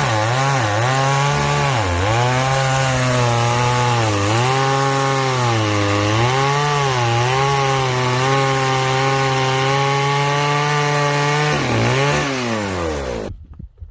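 Chainsaw running at high revs and cutting through wood, its pitch dipping again and again as the chain bites and recovering between cuts. It stops abruptly near the end.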